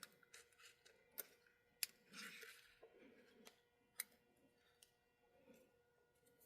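Faint sharp clicks and a short scrape of small parts and tools being handled on a model locomotive during bench repair.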